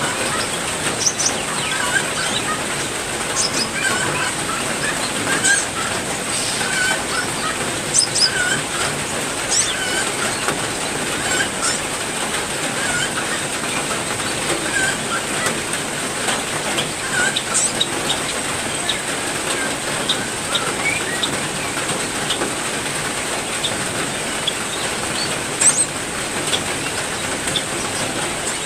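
Steady rain, with frequent short chirps and calls from several birds over it.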